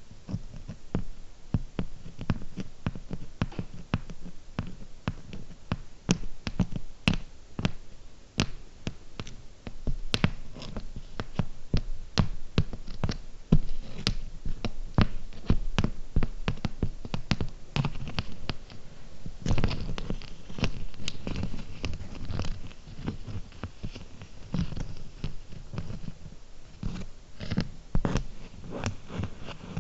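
Fingernails tapping close to the microphone on small ASMR trigger objects: a quick, uneven stream of sharp clicks, several a second, with some scratching. The tapping grows busier and louder about two-thirds of the way through.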